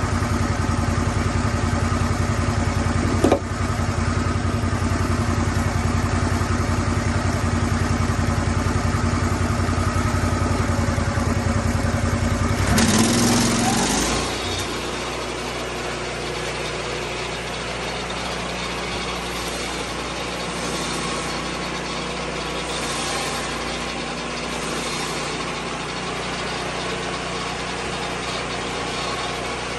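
Engine of a Lucas Mill 10-30 swing-blade sawmill running steadily under throttle. About halfway through there is a brief louder surge, then it settles to a quieter, lower-pitched steady running, like dropping back toward idle.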